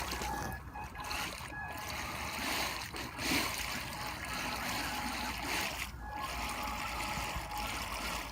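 Water splashing and trickling steadily, with a faint thin whine running underneath.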